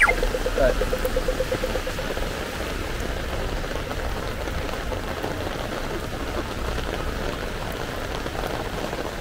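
Steady rain falling, an even hiss throughout. A brief pitched sound comes in the first two seconds.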